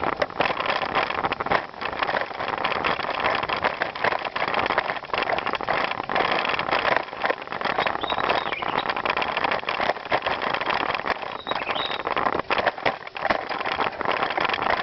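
Bicycle riding along: a steady rush of tyre and ride noise full of quick small clicks and rattles.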